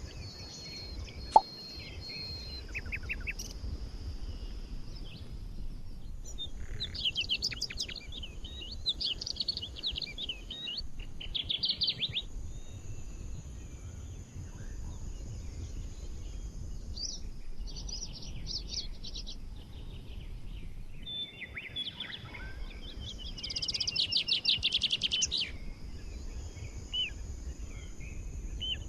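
Several songbirds singing and chirping in short phrases over a low steady rumble, with a fast trill of repeated notes late on that is the loudest song. A single sharp click sounds about a second in.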